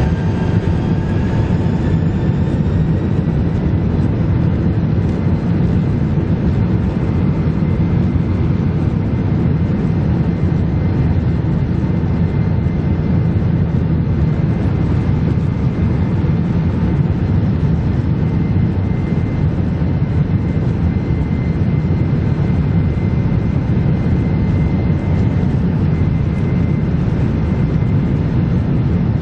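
Boeing 767-300's twin jet engines at takeoff power, a loud steady rumble. Thin whining tones climb in pitch over the first few seconds as the engines spool up, then hold steady.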